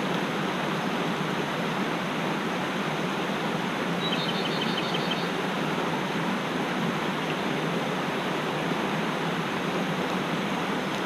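Mountain stream rushing steadily over rocks. About four seconds in, a small bird gives one short trill of quick, high repeated notes.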